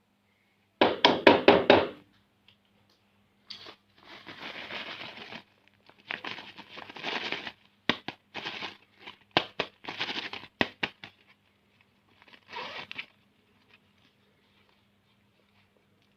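Plastic snack packets crinkling and rustling in several bursts, with a quick run of sharp clicks about a second in and a few single clicks and knocks among the rustling.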